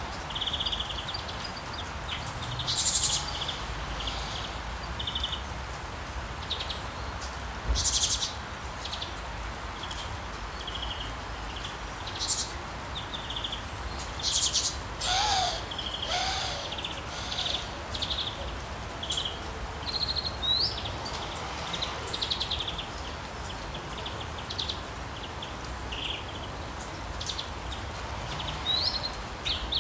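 Rainforest ambience: birds chirping and calling, with short high calls coming every second or two over a steady background hiss. Two short rising whistles come later on, and a lower call comes about halfway through.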